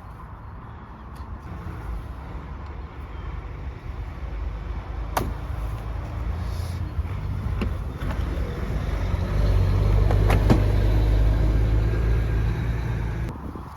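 A motor vehicle engine running with a low, steady rumble that grows louder over several seconds, with a few sharp clicks, then cuts off suddenly near the end.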